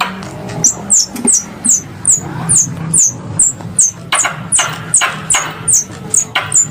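Squirrel lure call: a steady run of short, high chirps, each sliding down in pitch, about two or three a second. From about four seconds in, several chirps come with a harsher, rasping lower part, over a low steady hum.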